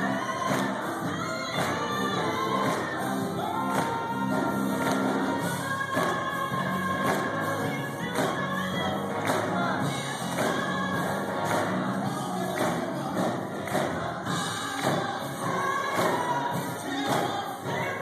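A choir singing a gospel song with instrumental backing and a steady beat.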